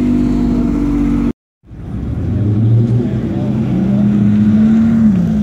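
Sports car engines running as cars pull slowly away, the sound cutting out completely for a moment about a second and a half in. Afterwards a Porsche 911 GT3's flat-six holds a steady note that rises slightly, then drops near the end.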